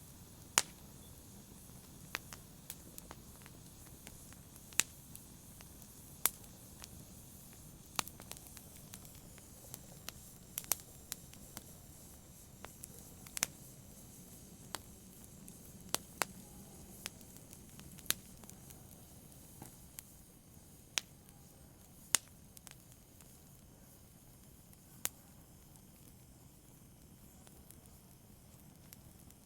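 Wood fire crackling in a fireplace: sharp, irregular pops and snaps over a soft low hiss, growing sparser in the last few seconds.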